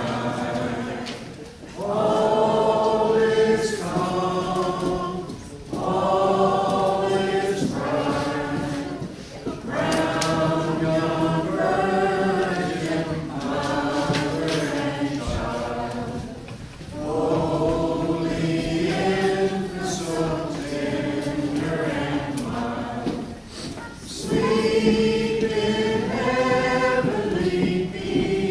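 A congregation singing a Christmas carol together a cappella, voices unaccompanied, in held phrases with short breaks for breath between them.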